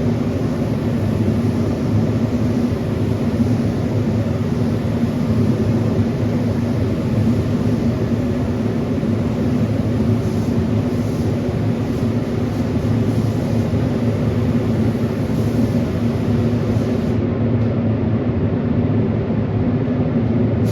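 A motor running steadily with a low hum, under a hiss of air that stops about seventeen seconds in while the hum carries on.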